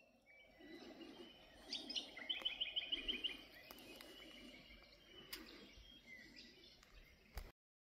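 Birds calling: a quick run of about eight sharp, evenly spaced chirps near the middle, with a few single chirps before and after, over faint low background noise. The sound cuts off abruptly near the end.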